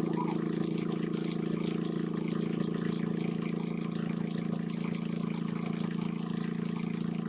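A small engine running steadily at an even speed, a constant drone with no change in pitch.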